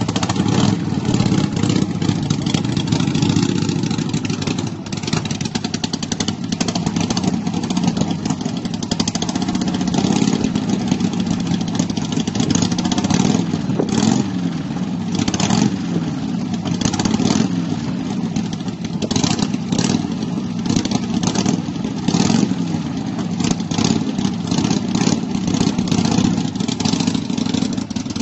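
Motorcycle engine running under way, its pitch rising and falling again and again with the throttle.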